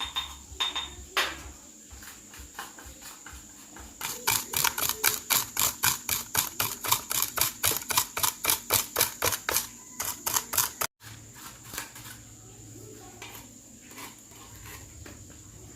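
A kitchen knife chopping on a cutting board. A few single knocks come first, then about four seconds in a fast, even run of chops at four to five strokes a second, which stops abruptly about eleven seconds in.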